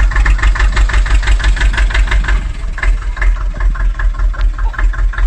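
Remote-control mini tractor chugging steadily at about six pulses a second, like an idling tractor engine.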